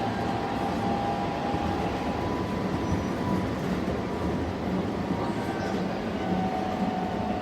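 Keihan 10000 series electric train with Toyo IGBT inverter running between stations, heard from inside the car: a steady rumble of wheels on track. A faint whine from the traction equipment fades after about two seconds and comes back slightly lower near the end.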